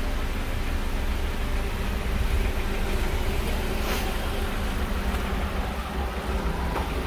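Honda Accord's 2.4-litre four-cylinder engine idling steadily, heard from outside the car, with a low rumble of wind on the microphone. A single brief click about four seconds in.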